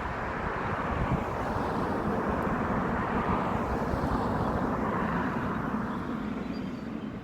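Road traffic right beside the microphone: a vehicle passes, its noise swelling for a few seconds and then fading away.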